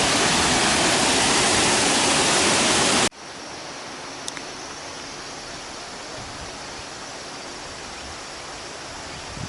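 Waterfall rushing, a loud steady roar of falling water that cuts off abruptly about three seconds in, leaving a much quieter steady outdoor hiss with a faint high-pitched whine and a single click soon after.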